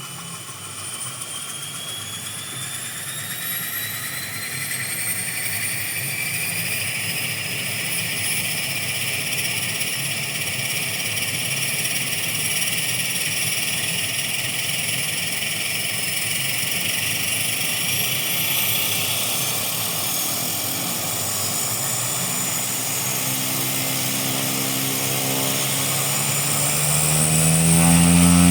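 Cessna 208 Grand Caravan's PT6A turboprop engine and propeller on the takeoff run: a turbine whine rising in pitch as power comes up, growing louder, and loudest as the aircraft goes by near the end.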